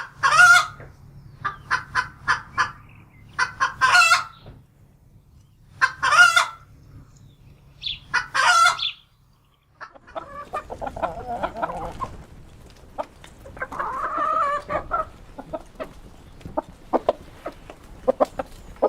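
Chickens clucking, broken by four loud, shrill squawking calls about two seconds apart. After a short break about ten seconds in, a flock of hens clucks steadily, lower and busier.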